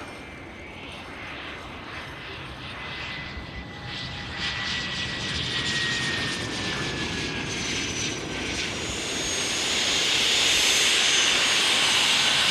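Cessna 510 Citation Mustang's twin Pratt & Whitney PW615F turbofans growing steadily louder as the jet approaches. A high whine slowly falls in pitch, and a rushing jet noise builds to its loudest near the end.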